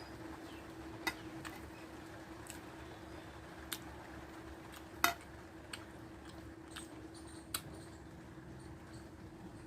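Eating sounds from a meal of rice and dried fish: scattered sharp clicks and taps of eating at a plate, the loudest about five seconds in, over a steady low hum.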